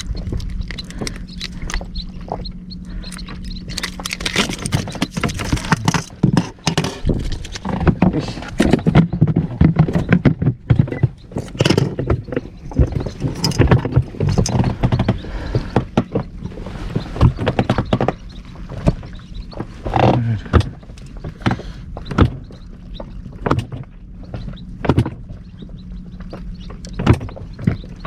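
Irregular knocks, thumps and clatter from handling fishing gear and a fish aboard a small inflatable boat, busiest in the middle, over a steady low hum.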